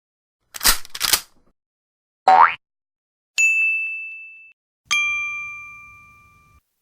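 A run of short stock sound effects: two quick noisy hits, a brief rising swoop, then two bell dings, the first a single clear tone and the second a richer bell with several pitches, each ringing out and fading over a second or more.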